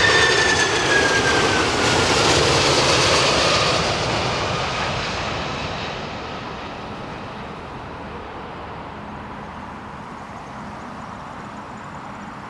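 Jet airliner passing close on its landing approach, its engines' high whine sliding down in pitch as it goes by, then the roar fading over several seconds into a steady distant rumble.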